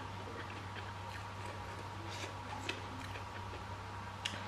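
Quiet eating sounds: soft chewing and a few small, sharp clicks from the mouth and from fingers picking food off a plate, over a steady low hum.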